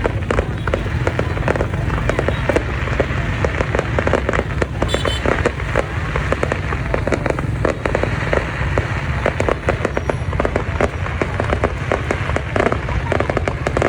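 Fireworks display: a dense, continuous run of many bangs and crackles every second.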